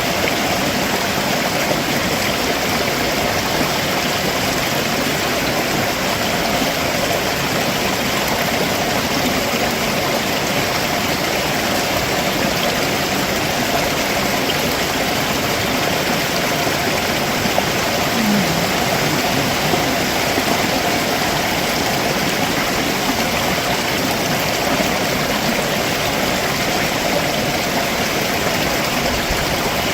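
Stream water rushing steadily over rocks below a waterfall, a dense even rush.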